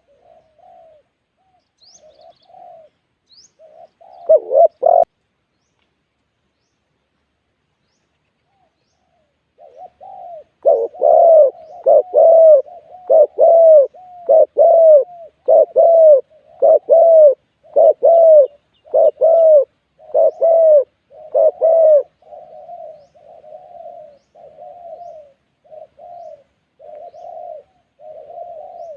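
Spotted doves cooing. There is a short loud burst of coos about four seconds in, then a pause, then a long run of loud, evenly repeated coos. After that the cooing carries on more quietly. A few faint, high chirps from another bird come near the start.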